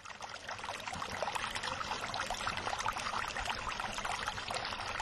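Vinegar being poured into an empty bottle in a steady stream.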